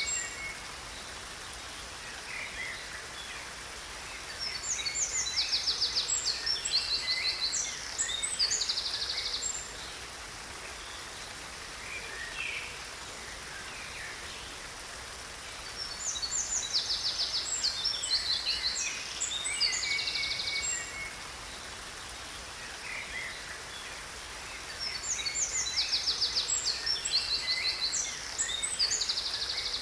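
Songbirds singing in three bouts several seconds apart, each a run of rapid high trills and chirps, over a steady hiss of falling water from a waterfall.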